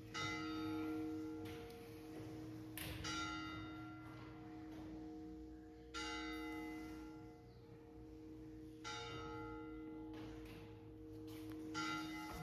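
A single church bell tolling slowly, struck five times about three seconds apart, its low hum ringing on between strokes.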